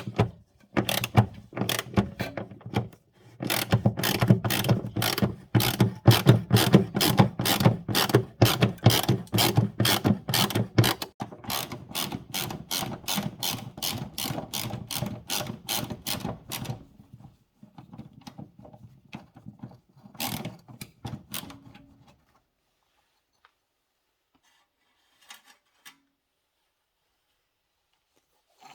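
Hand socket ratchet wrench worked back and forth on a bolt, giving a steady run of sharp clicks about three a second. The clicks get quieter after about seventeen seconds, with a few last strokes around twenty seconds before they stop.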